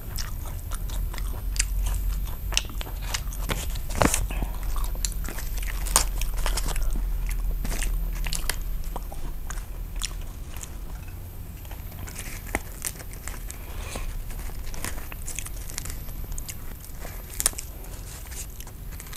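Close-miked chewing of a mouthful of a Vietnamese nem nướng rice-paper roll (grilled pork sausage, herbs and crispy fried rice paper), with many sharp crunching clicks. The heavy chewing eases off about halfway, leaving softer clicks and rustles while a new rice-paper roll is wrapped.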